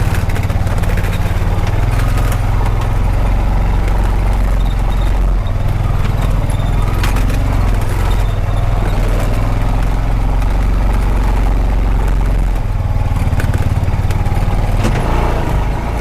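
Honda Pioneer 520 side-by-side's engine running while driving over a rough dirt track. Its low drone eases off about five seconds in and pulls harder again a few seconds before the end, with a few sharp rattles of the machine over bumps.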